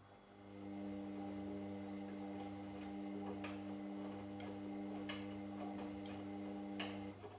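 Washing machine motor running with a steady hum that starts just after the beginning and stops about seven seconds in, typical of the drum turning during a wash cycle. A handful of light clicks are heard over it at irregular intervals.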